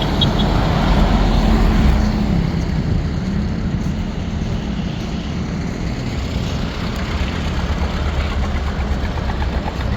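Motor vehicle engine running with road noise: a steady low rumble.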